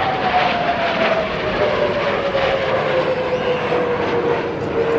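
Kawasaki T-4 jet trainers flying past, the loud rush of their turbofan engines with a whine that falls steadily in pitch as they go by.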